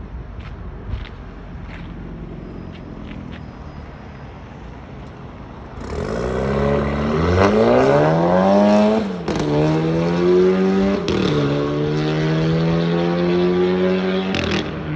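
SEAT Leon FR Mk3 engine heard through its exhaust: idling quietly with a few light clicks, then about six seconds in revved up in a rising climb that drops back about three seconds later. After another short blip it is held at steady, higher revs until it falls back near the end.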